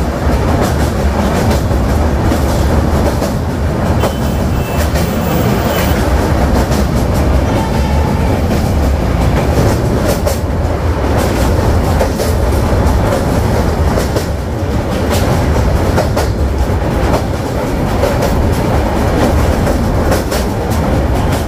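Express train running at speed over a steel truss bridge, heard from the open coach doorway: a loud, steady rumble of wheels on rails with irregular clicks and clanks.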